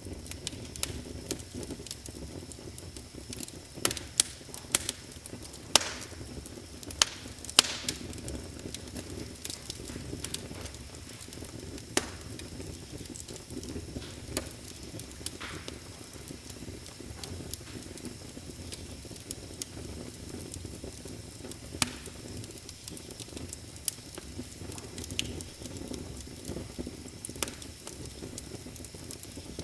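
Wood fire crackling in a fireplace: irregular sharp pops and snaps over a steady low rush of burning. The loudest cluster of pops comes between about four and eight seconds in.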